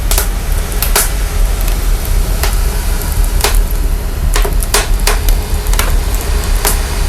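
Crackling fire heavily processed for a deep, steady sub-bass rumble, with irregular sharp pops and snaps about once a second.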